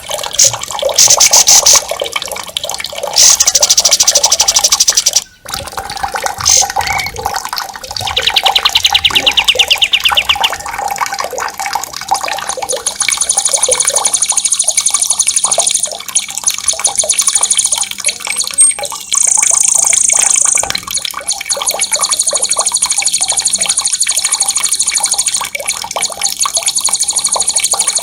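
Songbirds singing loud, very fast rolling trills one after another, high and shrill, over a steady wash of running water. Near the start the trills come in loud separate runs. From about 13 s on, one high trill carries on almost without a break.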